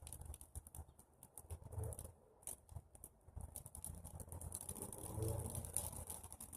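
A small fire of dry pruned tree branches crackling as it catches: a quick, irregular run of sharp pops and clicks.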